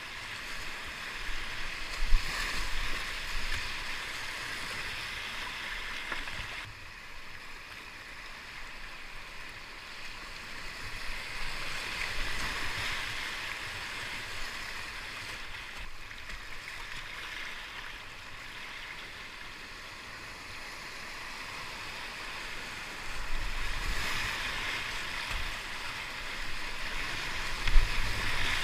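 Whitewater river rushing through rapids, a steady hiss that swells and eases, with two brief sharp hits, one about two seconds in and one near the end.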